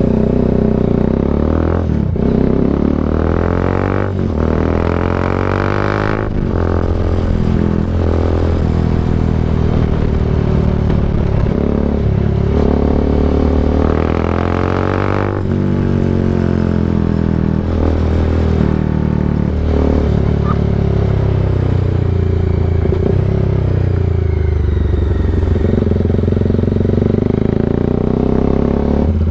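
Bajaj Dominar 400's single-cylinder engine through an SC Project aftermarket exhaust, heard while riding: the note climbs under acceleration and drops at each gear change, several times over, then settles into steady cruising.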